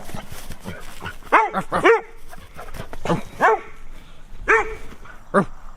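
A dog barking: about six short barks at irregular intervals.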